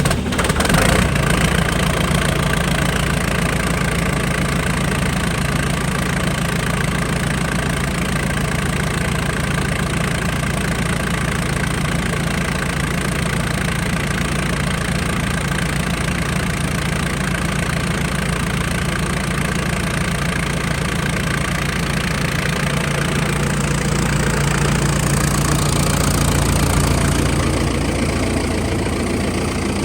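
Engine of heavy equipment idling steadily while warming up on a cold morning, with a low, even running note throughout.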